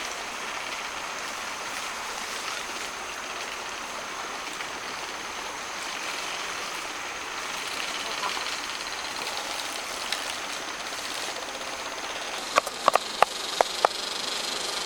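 Steady rushing noise like running water, with a quick run of sharp, loud knocks about two seconds before the end.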